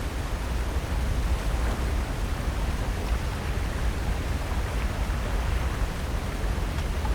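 Steady wash of ocean surf on the coast, with a deep rumble underneath and no distinct events.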